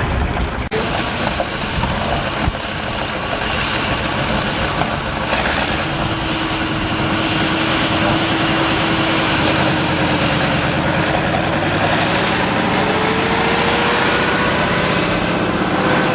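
Competition pulling tractor's engine running loud and steady, with a whine that appears about six seconds in and climbs in pitch in the second half.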